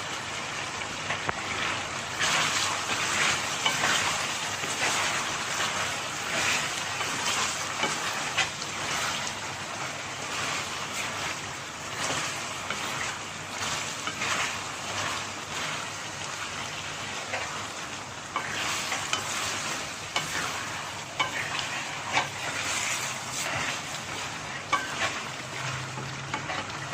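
Chicken pieces, onion and garlic-ginger paste sizzling steadily in hot oil in a pan, with frequent short knocks and scrapes throughout.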